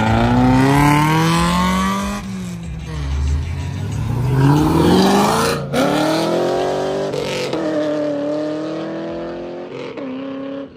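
A car engine accelerating hard through its gears: the pitch climbs and drops back at each shift, about two, six and seven seconds in, then holds and slowly fades.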